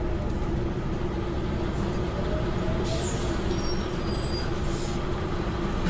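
Semi-truck's diesel engine running steadily, heard from inside the cab, with a constant low hum.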